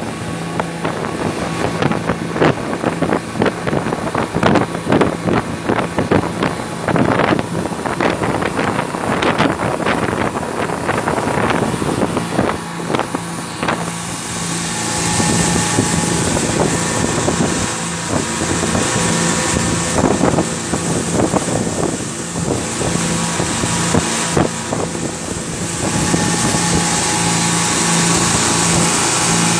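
Motorboat engine running steadily under way, with water splashing and wind buffeting the microphone. About halfway through, a louder steady rush of wind and spray takes over.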